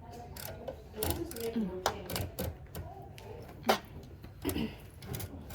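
Typewriter keys being struck one at a time, an irregular series of sharp mechanical clacks, with quiet voices in the background.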